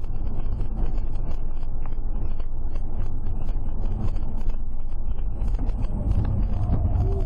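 Steady rumble of a moving car's engine and road noise, picked up by a dash cam microphone, with faint ticks over it; a faint steady tone comes in near the end.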